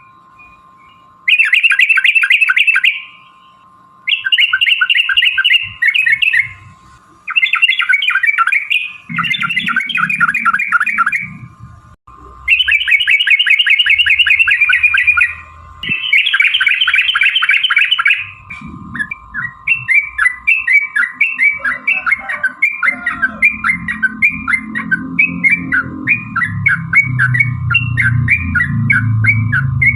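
Yellow-vented bulbul (trucukan) calling in loud bursts of fast chattering notes, each a second or two long with short pauses. About two-thirds of the way in, the bursts give way to a long unbroken run of quick repeated notes over a low rumble.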